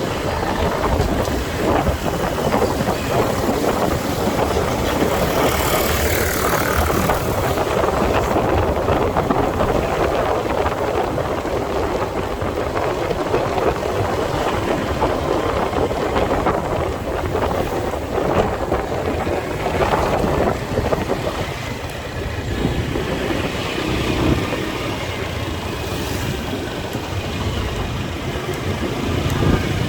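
Motorcycle riding through city traffic: its engine running under steady wind noise on the microphone, with other vehicles passing.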